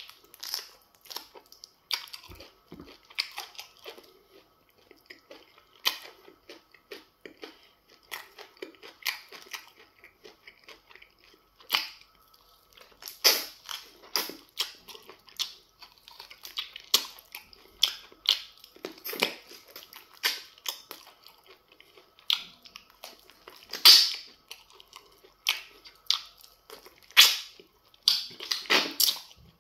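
A man chewing semo fufu with okra soup by hand, with irregular mouth smacks and clicks one to three a second, the loudest about three-quarters of the way through.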